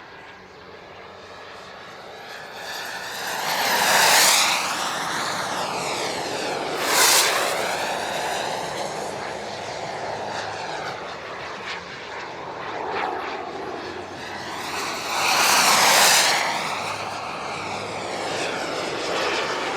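Large radio-controlled model jets (Elite Aerosports Havoc and Havoc SS) flying past, their model gas turbines whining with a high hiss. The sound swells and fades with each pass: loud about four seconds in, a short sharp pass about seven seconds in, and another loud pass near sixteen seconds.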